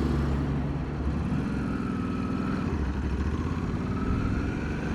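Ducati Multistrada motorcycle engine running steadily, with a faint whine that dips and rises again.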